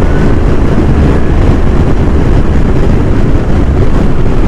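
Loud, steady wind rush buffeting the microphone on a motorcycle riding at highway speed, about 100–110 km/h into strong air drag, with engine and road noise underneath.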